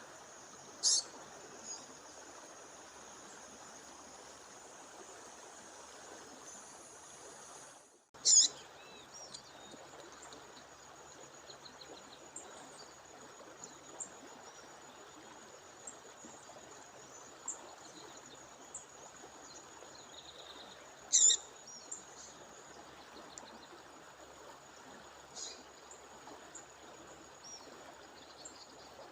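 A female bird giving short, sharp call chirps, four loud ones spread out with fainter notes between, over the steady rush of a waterfall and a thin high steady tone.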